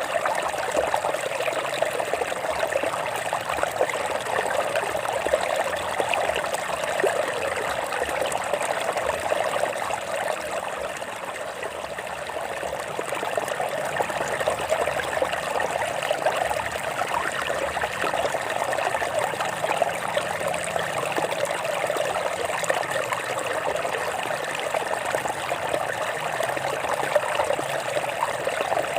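Stream water trickling and flowing over rocks in a steady, continuous rush.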